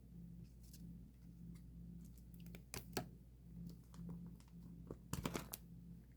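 Photocards and plastic card sleeves being handled, with small clicks and crinkles: two sharp clicks about three seconds in and a quick run of clicks a little after five seconds, over a steady low hum.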